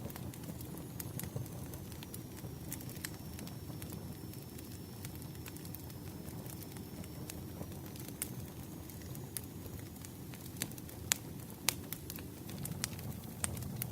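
Campfire burning: a steady low rumble of flames with scattered sharp crackles and pops from the wood, two louder pops near the end.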